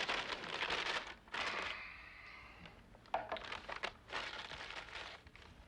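Paper bag crinkling and rustling as it is handled, in uneven bursts, with a sharp click about three seconds in.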